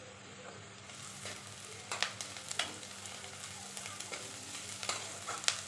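Chopped onions and garlic paste sizzling in hot mustard oil in a pan as they are stirred, the sizzle picking up about a second in. A metal spatula clicks and scrapes against the pan several times.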